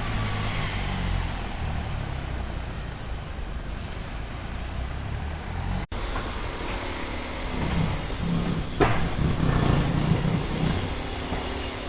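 Construction machinery: an engine running steadily, then a sudden cut about six seconds in to another recording of running machinery, with a sharp knock about nine seconds in.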